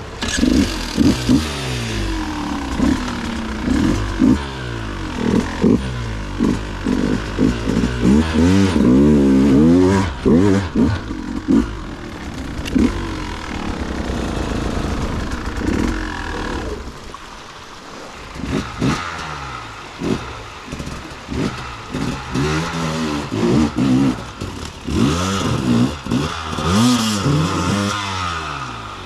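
Dirt bike engine revved hard in quick repeated throttle blips, its pitch rising and falling sharply, easing to a lower, quieter running for a couple of seconds past the middle before the revving starts again.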